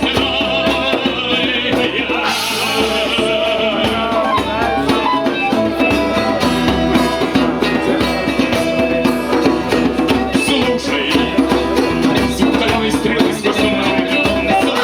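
Live band playing a song: steady, dense music with held melodic notes and drum hits throughout.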